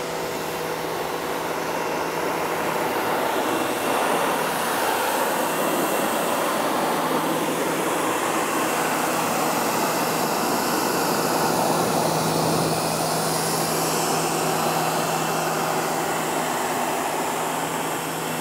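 Electric pressure washer running steadily: a low hum from its motor-driven pump under the hiss of the water jet blasting foam and mud off an ATV's plastic bodywork.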